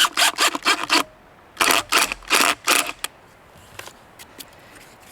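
Quick scraping strokes on a cedar board, about four a second, in two short runs, followed by a few faint clicks.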